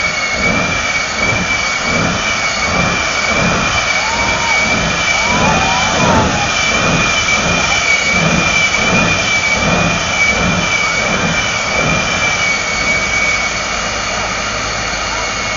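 Jet engine of a Kenworth jet truck running with a steady high whine over a loud rushing roar. A low rumble pulses about twice a second, and the whine fades away near the end.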